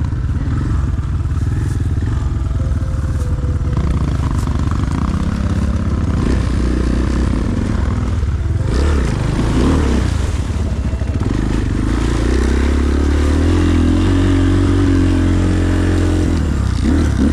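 Enduro motorcycle engine labouring and revving unevenly while the bike is worked through rough ground, with some clatter. From about twelve seconds in it holds a steadier, higher rev as the bike climbs out.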